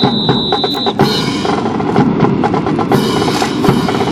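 Drums playing a rapid run of beats as part of band music, with a high, steady tone held through the first second.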